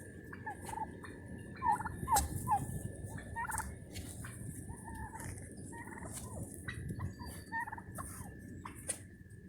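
A flock of young domestic turkeys calling: many short peeps and yelps, each gliding up or down in pitch, overlapping irregularly throughout.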